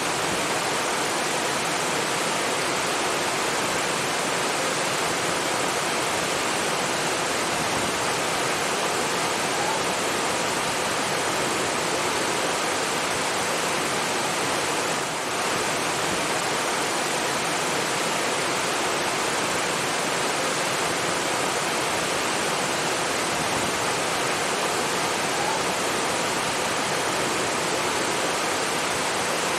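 Steady rush of falling water, like a waterfall or fast stream: an even, unbroken hiss with a brief slight dip in level about halfway through.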